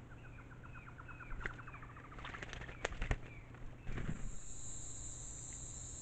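A bird calling in a fast run of short notes that quicken, then a few sharp splashes as a bird bathes in a shallow rock pool. About four seconds in, a steady camera hiss begins and a brief flap of wings is heard.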